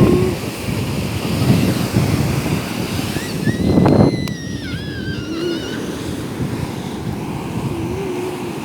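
Sea waves washing on the shore, with wind buffeting the microphone; a wave surges loudest about four seconds in. A high, wavering cry of about two seconds, from an unidentified source, rises over the surf at the same moment.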